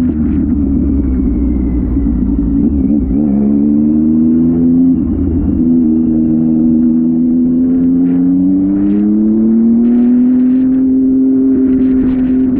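Motorcycle engine under throttle. Its pitch rises and dips in the first few seconds with a deep rumble, then climbs slowly and steadily as it gains speed.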